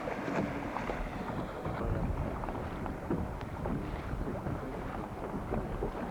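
Wind buffeting the camcorder microphone: a steady rumbling noise that rises and falls, with faint indistinct background sounds.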